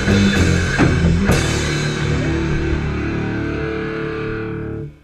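Rock band ending a song: guitars and drums play on, a final hit lands just over a second in, then a held chord rings and stops abruptly near the end.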